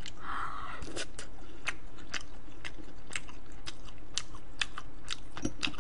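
Close-miked chewing of a crispy fried shrimp in chili sauce (kkanshao shrimp), with sharp crunchy clicks about twice a second.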